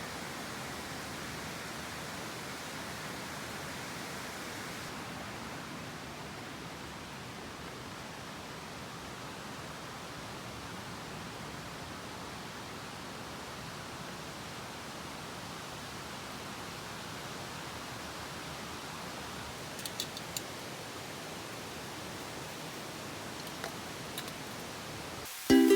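A steady hiss of noise with a few faint clicks around two-thirds of the way through and again near the end.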